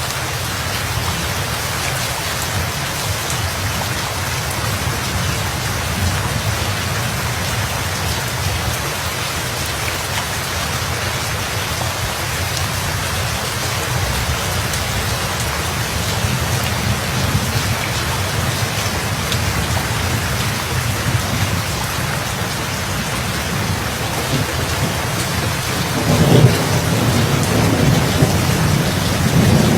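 Steady rain falling. Near the end a deep rumble of thunder rolls in.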